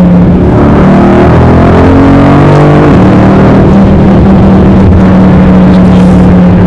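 Mercedes-AMG 63's twin-turbo V8 with active exhaust accelerating hard, its pitch rising for a couple of seconds, then settling into a steady drone at constant speed.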